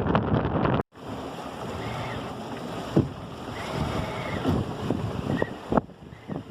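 Wind buffeting the microphone aboard a small sailboat under way. After an abrupt cut about a second in, quieter rushing water with a few sharp knocks.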